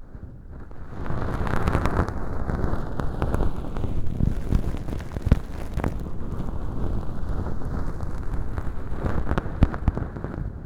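Bonten feather earpick brushing and scratching inside an artificial ear canal lined with fluffy velcro and packed with dry fake earwax, heard close up: a dense, low, scratchy rustle full of crackles. It swells in over the first second and stops abruptly at the end.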